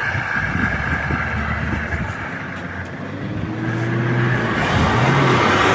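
Car engine revving under load as a stuck vehicle is driven in reverse while being towed out. It runs steadily, eases off a little, then rises in pitch and gets louder from about halfway through.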